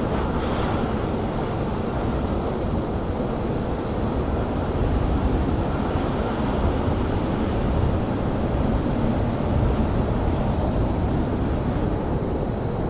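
Steady low rumble of rail traffic in a railyard, with a thin high whine held throughout. A brief burst of rapid high-pitched chirps comes near the end.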